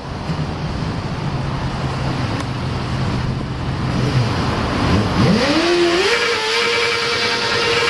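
A motorcycle engine over a noisy rumble, revved up sharply about five seconds in and then held at a high, steady pitch.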